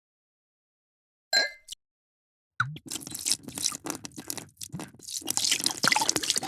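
A short ringing clink about a second in, then, from about two and a half seconds, a drink being poured, splashing and crackling into a glass.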